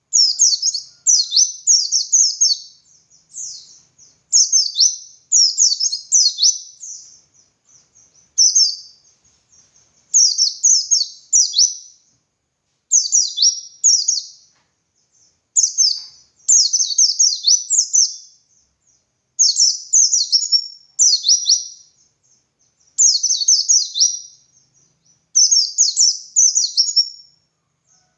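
White-eye (pleci) singing its high, fast twittering 'ngalas' song: phrase after phrase of rapid downward-sweeping notes, each phrase a second or two long with short pauses between.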